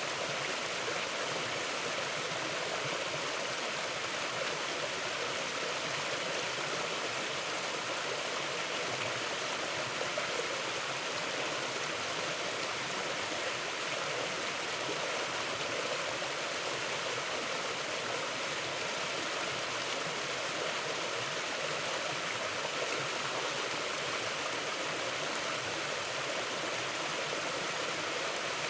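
Mountain river flowing steadily, an even rushing of water over its bed.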